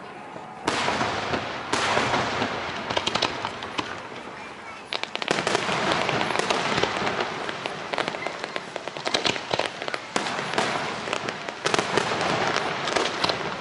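Aerial fireworks display: a loud burst about a second in, then continuous crackling with many sharp pops and booming shell bursts, easing briefly midway before picking up again.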